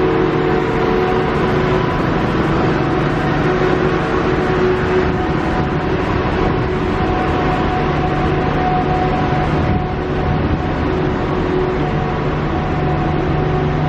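Steady mechanical drone with several held humming tones from a stationary diesel passenger train idling at the platform, its engines and on-board equipment running.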